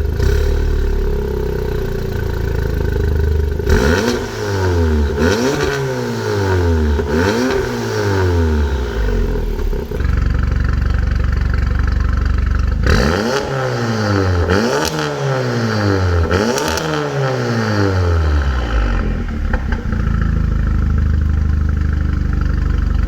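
Turbocharged 2.0-litre four-cylinder of a 2017 VW Golf R, with an HPA FR450 turbo and a 3-inch exhaust ending in a Remus axle-back, idling and then revved in two sets of three quick blips, settling back to idle between and after them.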